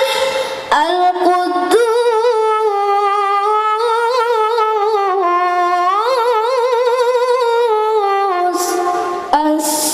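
A child qari's high voice reciting the Quran in melodic tajwid style, drawing out one long melismatic phrase with wavering ornaments that climbs in pitch midway. It breaks off briefly near the end before the next phrase starts.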